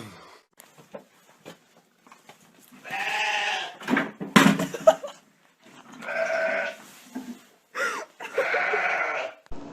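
Cat meowing three times in long, drawn-out calls of about a second each, with a few sharp knocks between the first and second.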